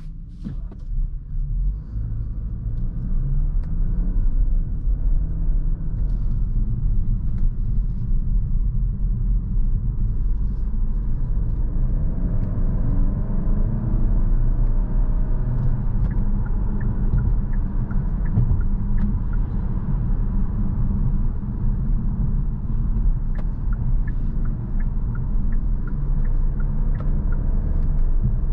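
Cabin sound of a 2022 Kia Stinger GT-Line's 2.5-litre turbocharged four-cylinder engine pulling the car up to speed, its note rising for the first dozen seconds or so. It then settles into a steady cruise drone with low road rumble.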